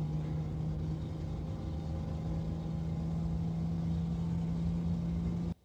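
Car engine running at a steady cruising speed, heard from inside the car as a steady drone with a low rumble. It cuts off abruptly just before the end.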